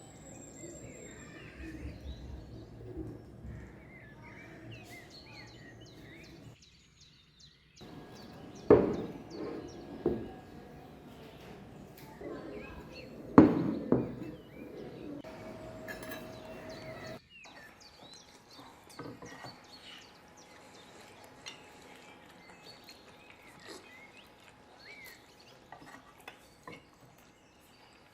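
Birds chirping in the background, with a few sharp knocks: the loudest come about a third and halfway through.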